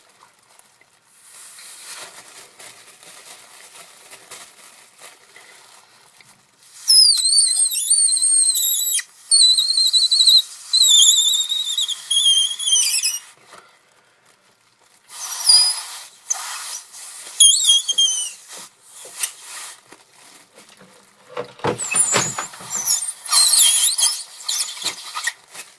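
A plastic bag blown to whistle: shrill, wavering, squealing whistle tones in three spells, with soft rustling of the bag before the first.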